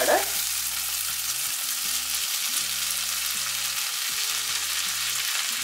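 Onion-tomato masala sizzling steadily in hot coconut oil in a nonstick frying pan, an even frying hiss.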